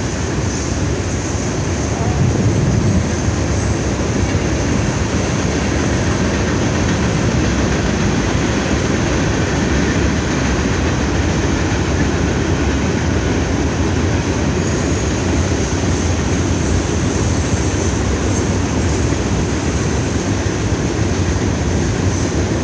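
CSX freight train's cars rolling past at about 45 mph: a steady, unbroken noise of steel wheels running on the rails.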